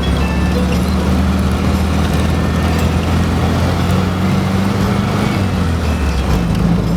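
Steady drone of a vehicle driving: engine hum under road noise.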